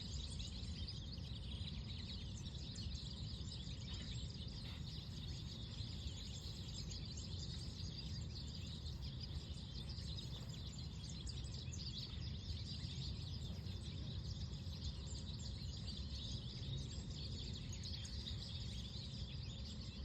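Small birds chirping continuously, many short calls overlapping, over a steady low rumble of outdoor noise.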